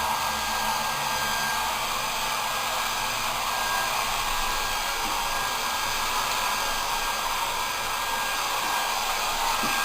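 Pet blow dryer running steadily as it dries a dog's coat, a steady rushing of air with a faint high whine.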